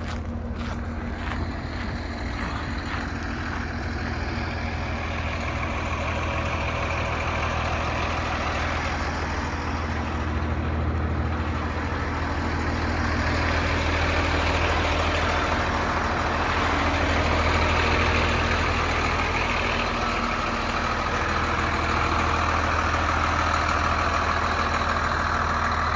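Caterpillar 3126 inline-six diesel of a Freightliner FL80 truck running at a steady idle, with a constant low hum that swells a little near the middle and again toward the end.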